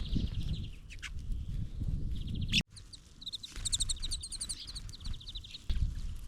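Small songbirds at a feeder chirping, with a quick twittering trill of repeated high notes a little past the middle, over a low rumble. The sound cuts out abruptly for a moment just before the trill.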